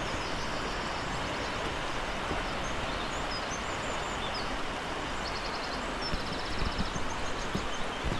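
Steady rush of fast-flowing water from a rain-swollen stream or river, with small birds chirping and trilling above it. A few soft thumps come near the end.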